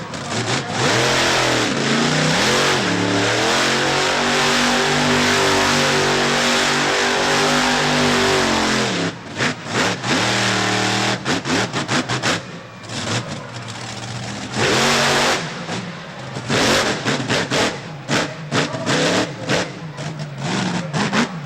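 Monster truck engine revving hard and held at high revs for several seconds, then dropping away, followed by a string of short, sharp throttle blips and revs.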